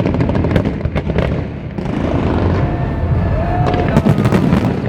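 Fireworks bursting: a steady booming rumble with two rapid clusters of sharp crackling bangs, one early and one near the end.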